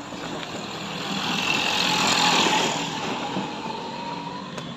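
A motor vehicle going past, growing louder to a peak about two seconds in and then fading.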